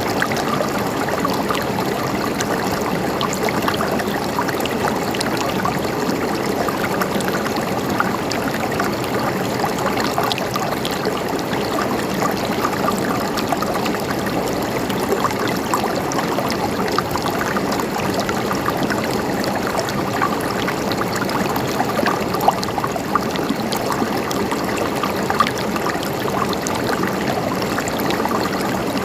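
River water flowing and gurgling over rocks, a steady babble with small splashes flickering through it.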